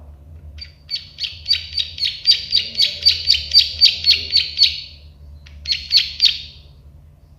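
Prenjak sawah (a prinia) calling: a fast run of sharp clicking notes, about four a second for some four seconds, then a short burst of three more.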